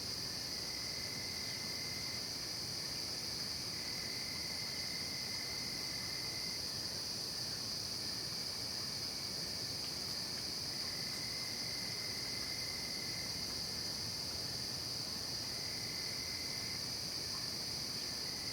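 Night chorus of crickets and other insects: a steady high-pitched trilling that never breaks, with a lower trill that starts and stops every few seconds.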